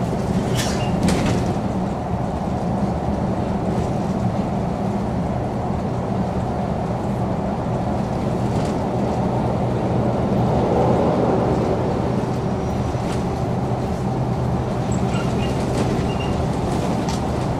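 MAN NG 313 articulated city bus running, a steady diesel drone with rolling noise. A few short clicks and rattles about a second in, and faint short tones near the end.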